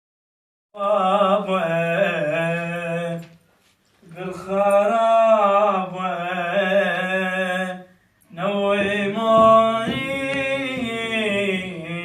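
A solo voice singing an Iraqi song in three long, wavering, ornamented phrases, with short breaks between them.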